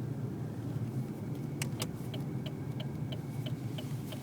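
Steady engine and road rumble inside a moving car. About a second and a half in there is a click, and then the turn signal starts ticking evenly, about three ticks a second.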